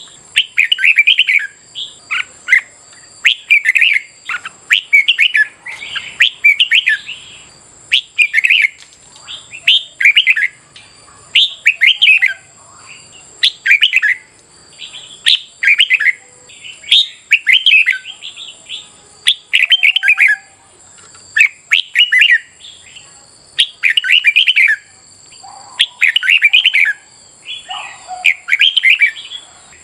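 Red-whiskered bulbul singing: short, bright warbled phrases repeated in a steady series, about one every second or so.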